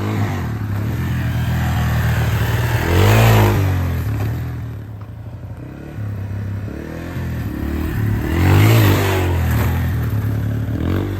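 Dirt bike engine running under way, with the revs rising and falling and two louder rev-ups, about three seconds in and again near nine seconds.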